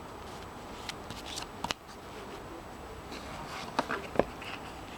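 Lenormand cards being handled and laid out: a scatter of soft taps and card slaps, the loudest cluster a little before the end, over a faint room hiss.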